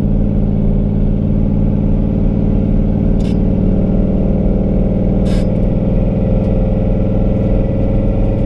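Single-turbo Ford Mustang's V8 cruising at a steady light throttle, an even engine drone heard from inside the cabin. Two faint clicks come about two seconds apart midway through.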